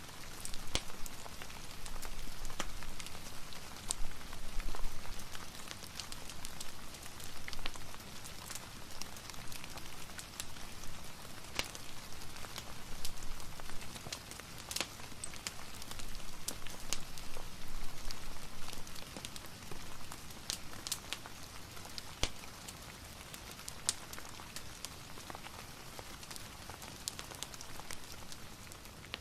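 Steady soft rain, with a fireplace crackling and many scattered sharp pops.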